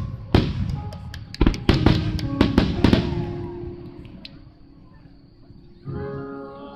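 Music playing with a rapid run of sharp aerial firework bangs over the first three seconds; the bangs stop and the music drops low, then comes back louder near the end.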